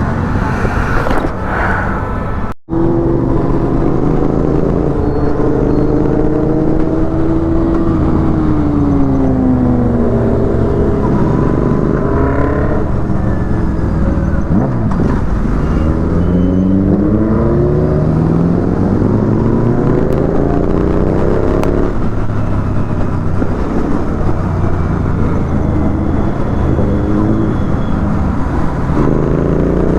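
Motorcycle engine under way, a Royal Enfield GT 650's parallel twin, its pitch climbing under acceleration and dropping back at each gear change several times, over steady road and wind noise. Sound cuts out briefly about two and a half seconds in.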